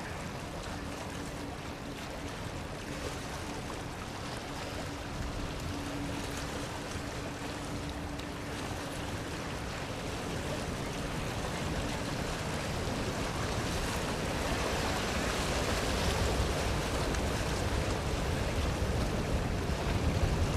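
Jet engines of a Boeing 737-400 on landing approach: a steady rushing noise that grows louder toward the end, with a faint steady hum in the first half.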